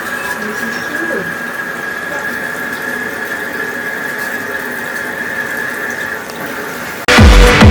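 Sharp ESX958 top-load washing machine filling with water: a steady rush of water with a thin high whine that stops about six seconds in. Loud electronic music with a beat starts near the end.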